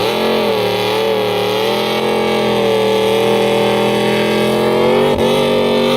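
Car engine revving up and then held at steady high revs, loud and close, with a brief dip about five seconds in.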